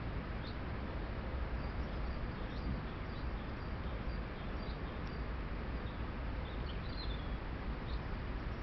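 Faint, short bird chirps scattered over a steady hiss and low rumble from a trail camera's microphone.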